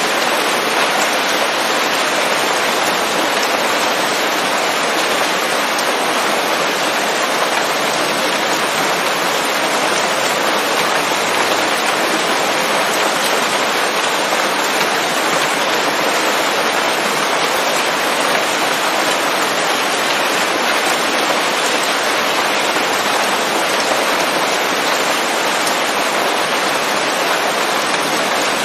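Steady rain falling on forest leaves, a dense even hiss of drops with no distinct drips or thunder.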